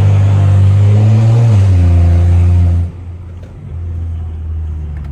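Straight-piped BMW N55 3.0-litre turbo inline-six exhaust, loud under throttle for about three seconds. Its pitch rises slightly, then steps down and holds, and the sound cuts off sharply when the throttle closes. The engine then keeps running at a much lower level.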